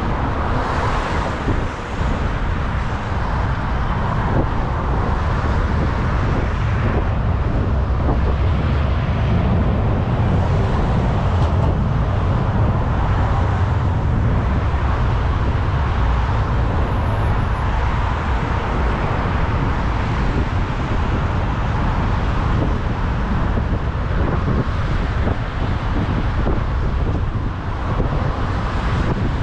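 Steady city street traffic: cars running past, under a constant low rumble.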